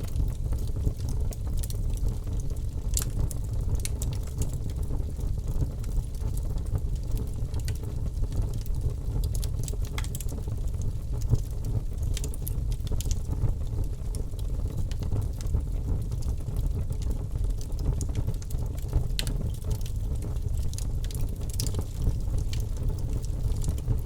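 Birch logs burning in a fireplace: a steady low rumble of flame with irregular sharp crackles and pops scattered throughout.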